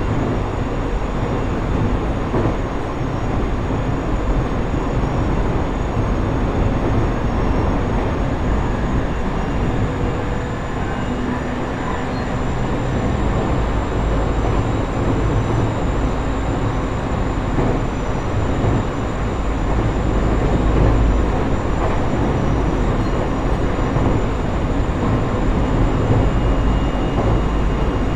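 Cabin running noise of a JR East E127 series electric multiple unit motor car (KuMoHa E127-11) travelling at speed: a steady, heavy rumble of wheels on rail with faint steady high tones above it.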